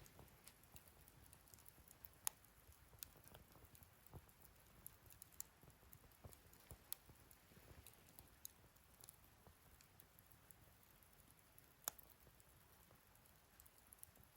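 Wood fire crackling faintly, with scattered small snaps and pops; two sharper pops stand out, about two seconds in and near the end.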